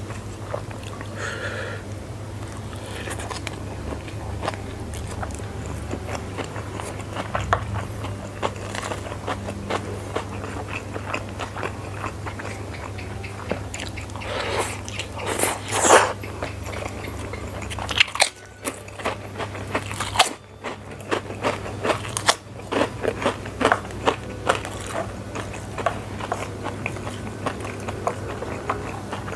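Close-miked eating of spicy fried flat rice noodles: wet chewing with sharp crunchy bites and mouth clicks throughout, loudest about halfway through. A steady low hum runs underneath.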